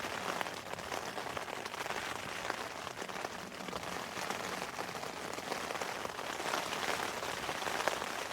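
Heavy rain battering the flysheet of an OEX Raccoon 2.1 tent, heard from inside: a steady hiss of countless small drop taps on the fabric.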